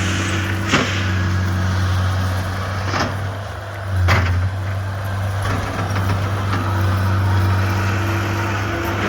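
Skid steer engine running steadily under work, dropping briefly and picking up again about four seconds in, with three sharp clanks from the machine.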